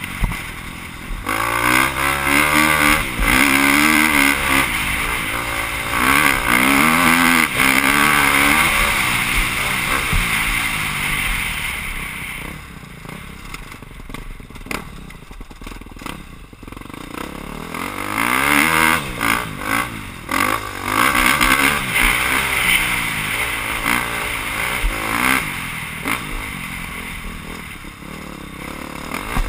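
Motocross bike engine heard from an on-board camera, its pitch rising and falling again and again as the rider works the throttle. It backs off for several seconds midway, then revs hard again before easing off.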